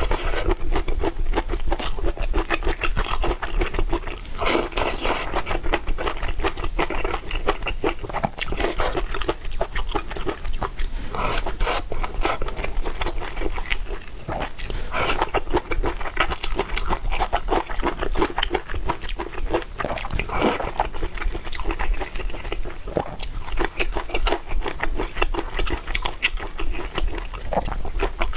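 Close-miked eating sounds: continuous chewing, biting and crunching, a dense run of small wet clicks.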